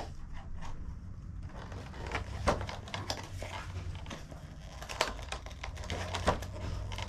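Toy packaging being handled: plastic crinkling and rustling, with small clicks and a few sharper taps, about two and a half, five and six seconds in.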